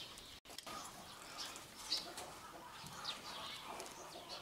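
Faint bird calls: a few short chirps scattered over a quiet background.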